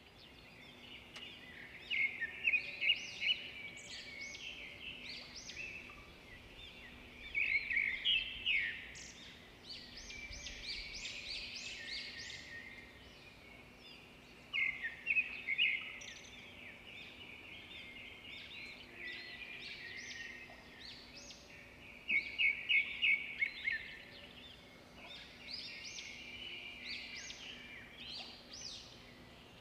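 Birds chirping in clumps of quick high notes every few seconds, with quieter calls in between.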